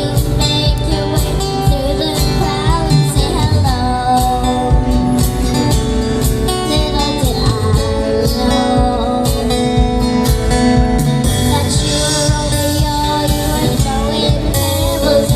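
A young girl singing a song over instrumental backing with guitar.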